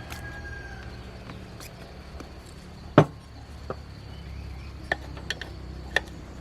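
A few sharp knocks and clicks of parts and hand tools being handled, the loudest about three seconds in, over a steady low hum.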